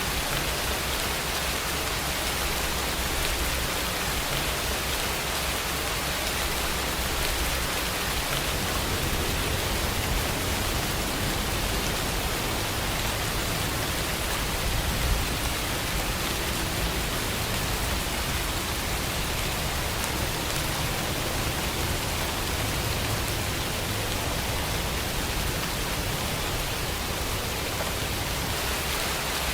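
Steady rain falling, an even hiss of drops with a low rumble beneath, and one brief louder drop or tap about halfway through.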